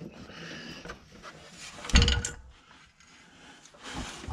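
Handling noises of a fuel line quick-connect being worked off the fuel filter with a removal tool, with one sharp clunk about two seconds in and a smaller knock near the end.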